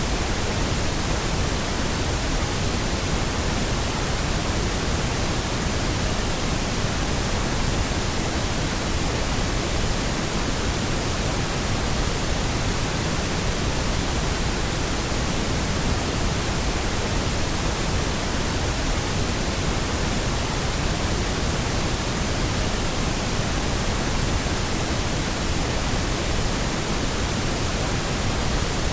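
Steady pink noise: an even, unchanging hiss spread across all pitches, with no tones or interruptions.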